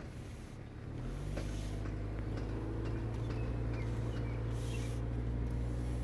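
1998 Honda Civic's engine picking up under acceleration about a second in, then pulling steadily, heard from inside the car, with a few faint clicks.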